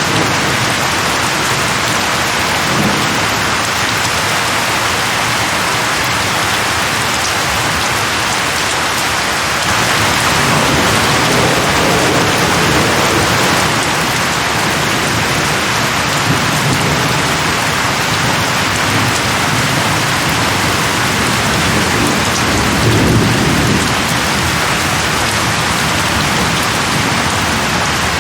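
Steady rain falling, with low rumbles of thunder about ten seconds in and again, louder, a little after twenty seconds.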